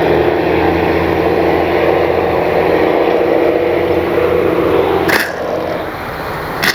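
Electric motor and propeller of an RC model Piper Cherokee flying by, a steady whine. It cuts off suddenly about five seconds in with a click, leaving a quieter hiss.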